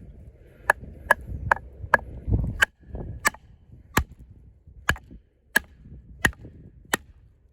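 A heavy fixed-blade combat knife with a 6 mm thick Sleipner steel blade chopping into hard, knotty wood: about eleven sharp blows, roughly one and a half a second, each a crisp knock with a brief ring.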